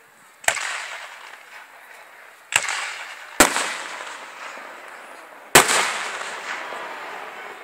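Aerial firework shells bursting overhead: four sharp bangs, the last two about two seconds apart, each trailing off over a second or two.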